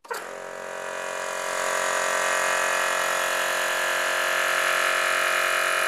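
Air compressor motor running steadily, starting suddenly, building slightly in loudness over the first couple of seconds, then cutting off near the end: the compressor refilling its tank to drive a pneumatic nail gun.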